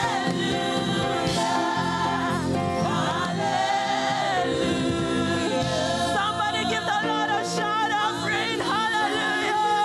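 Church choir singing a gospel praise song with instrumental backing.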